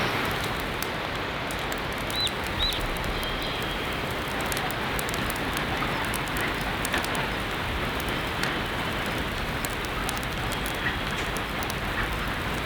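Steady heavy rain, with many separate drops tapping through the hiss. Two short high chirps come about two seconds in.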